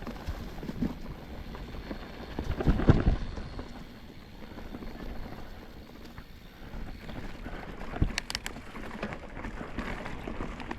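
Mountain bike rolling over a rough, rocky trail: tyres on dirt and rock and the bike rattling, with wind rumble on the microphone, louder about three seconds in, and a few sharp clicks near the eighth second.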